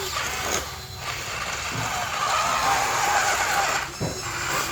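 Huina radio-controlled toy bulldozer running, its small electric motors and gearbox giving a whine that rises and falls in pitch.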